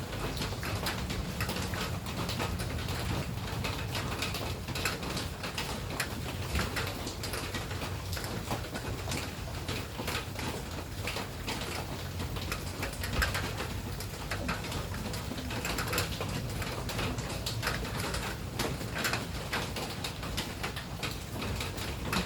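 Rain falling steadily, a dense patter of drops over a low, steady rumble.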